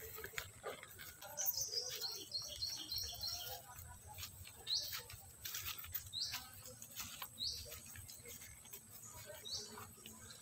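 Birds chirping: a quick run of high notes about two seconds in, then short rising chirps every second or two.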